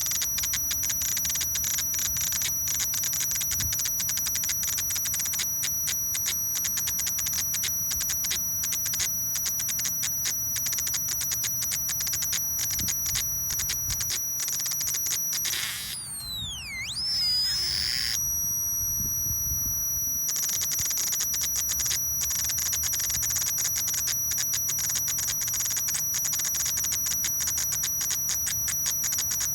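Solar-powered electronic cicada sounder buzzing: a high, shrill tone rapidly pulsed in imitation of a cicada's song. About halfway through it stops for a few seconds, during which a swooping tone dips and rises, then the pulsing resumes.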